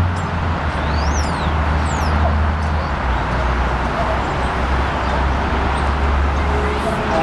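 Steady rumble and hiss of a train still far down the line, mixed with wind and road noise, with a few short high chirps about a second in. A train horn starts sounding right at the end.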